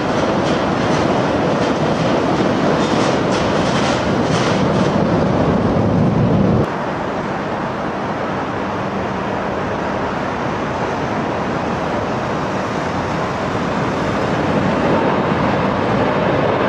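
Loud steady roar of jet airliner engines, which drops suddenly and changes character about seven seconds in.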